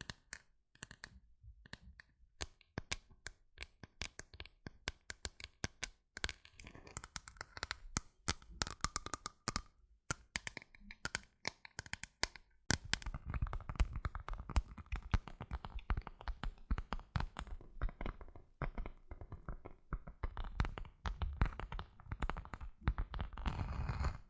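Close-miked ASMR tapping and scratching: quick, sharp taps at an uneven pace, turning into a denser, fuller run of tapping and scratching from about halfway.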